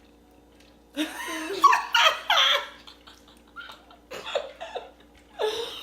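People laughing and exclaiming in several short bursts.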